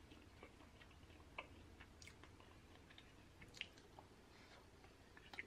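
Very quiet chewing of a bite of hot Italian sausage, with a few faint mouth clicks scattered through.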